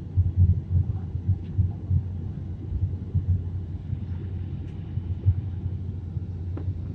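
Low, uneven rumble of an airliner cabin heard from a passenger seat, its level fluttering constantly.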